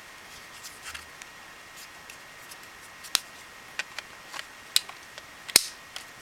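Small objects being handled by hand: a scatter of sharp clicks and taps, sparse at first and more frequent in the second half, the loudest near the end.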